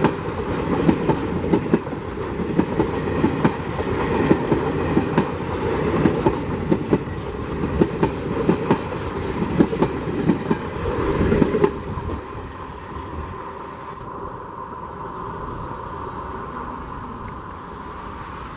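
Passing passenger train, its coach wheels clattering over rail joints in a fast, irregular clickety-clack. About twelve seconds in the clatter stops and a fainter steady rumble remains.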